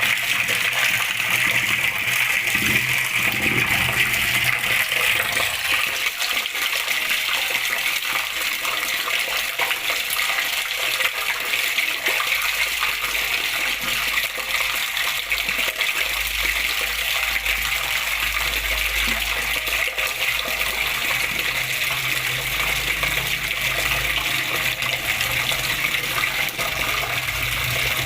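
Flowing water running steadily, an even rushing and splashing of a stream or water channel.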